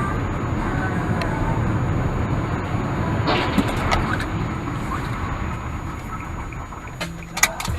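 A car driving, with a steady rumble of engine and road noise. A few sharp clicks break in midway, and two louder knocks come near the end.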